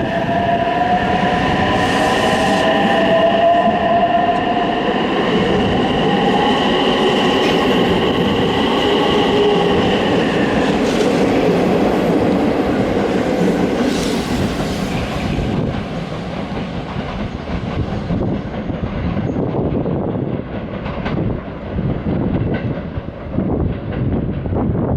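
A train running through the station tracks, with a high whine of several tones over the first ten seconds, the lowest one rising a little. Wheels click over the rail joints as the running noise eases off and wavers near the end.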